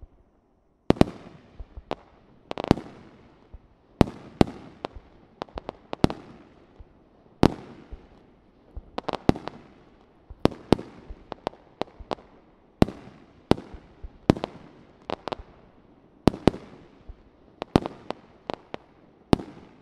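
Fireworks display: aerial shells bursting in a rapid, irregular string of sharp bangs, starting about a second in, each trailing off in a fading echo.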